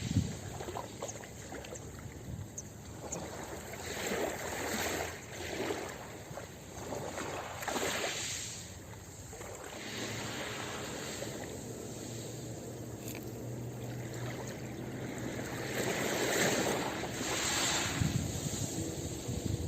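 Ocean waves breaking and washing onto a beach, the surf hiss swelling and ebbing every few seconds, with stronger surges midway and near the end.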